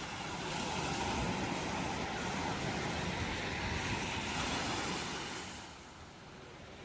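Ocean waves breaking on a shore: one wave's wash swells up, holds, and falls away near the end.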